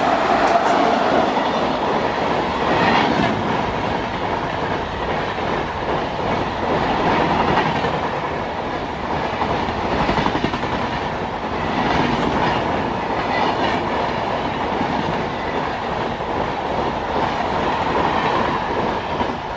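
Express train hauled by a WAP-7 electric locomotive running through at speed, its LHB coaches passing in a loud, steady rush of wheel and rail noise with occasional clacks over the rail joints.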